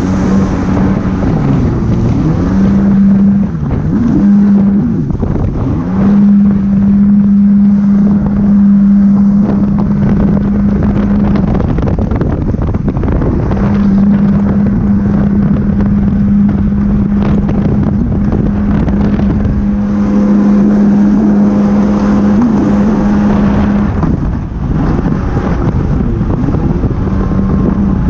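Jet ski engine running at steady high speed, its pitch wavering in the first few seconds and dropping away briefly twice, about twelve seconds in and near the end. Wind on the microphone and water rush run under it.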